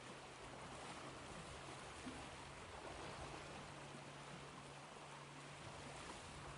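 Ocean waves washing as a faint, steady hiss of surf without distinct breaking crashes, with a steady low hum underneath.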